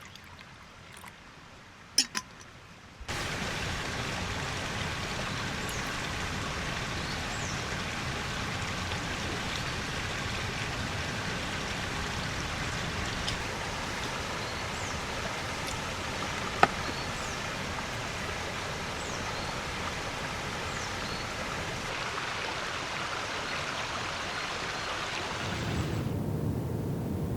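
Heavy rain falling steadily, a dense even hiss. It comes in suddenly about three seconds in, after a quieter stretch with two sharp clicks, and turns to a deeper rumbling rush near the end.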